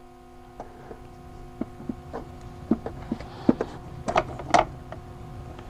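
Scattered light metallic knocks and clunks, about eight of them and the loudest two near the end, as a car starter motor is handled and bumped against parts while being fitted into the engine bay, over a steady faint hum.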